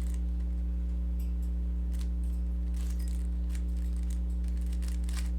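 Rubik's cube being turned: faint, irregular plastic clicks of the layers as an algorithm is run. Beneath them runs a steady low electrical hum, which is the loudest sound.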